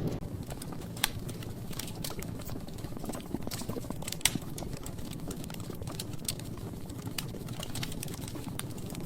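Log fire burning in a fireplace: a steady low rumble of flames with frequent sharp crackles and pops from the burning wood. Two louder pops stand out, about one second in and about four seconds in.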